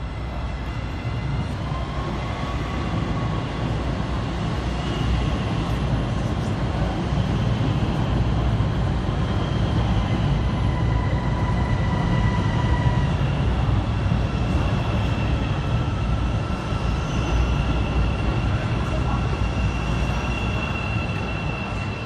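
CTA 5000-series rapid-transit train moving through the station: a steady low rumble of wheels on rail with faint, held high tones above it. It grows louder in the middle and eases off near the end.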